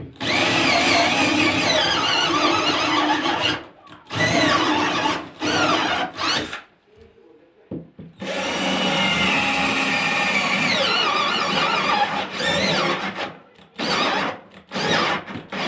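Handheld power tool working the wood of a desk in three long bursts, its pitch wavering under load, with short pauses between them.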